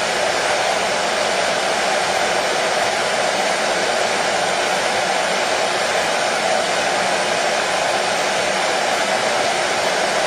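Hair dryer running steadily: an even, unbroken blowing whoosh with a hum around the middle of the range.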